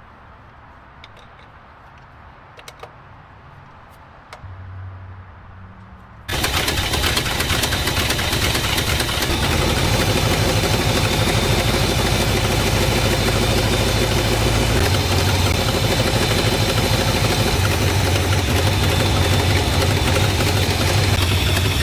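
A few faint clicks and a short low hum, then the 1962 Ford Galaxie's V8 engine starts suddenly about six seconds in and runs steadily, coming back to life after sitting for over 30 years.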